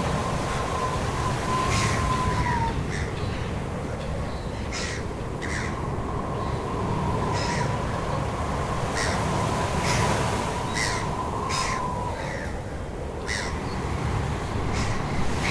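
Repeated short bird calls over a steady rushing background noise.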